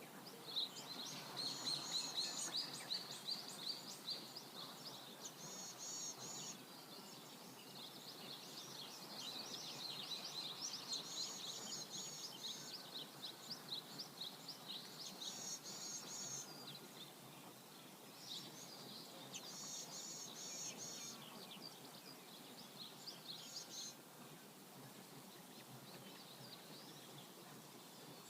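Songbirds chirping and trilling in quick repeated runs of high notes over the steady hiss of a flowing river. The birdsong thins out over the last few seconds.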